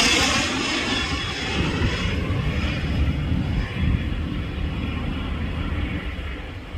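Cessna Citation Ultra business jet's twin turbofan engines fading away after passing close by: the high hiss and whine die off over the first couple of seconds, leaving a low rumble that slowly fades.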